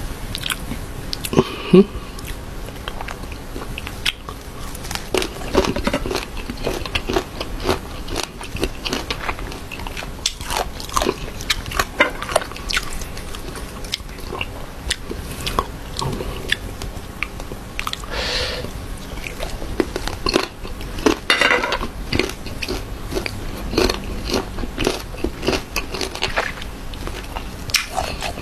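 Close-miked biting and chewing of crisp unripe green mango slices: many sharp crunches in an uneven run, with two longer hiss-like sounds about 18 and 21 seconds in.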